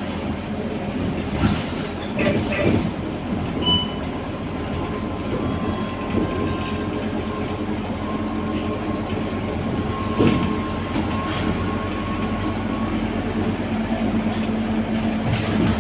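Scania K230UB city bus on the move, its diesel engine and road noise making a steady rumble, with occasional knocks and rattles from the bodywork.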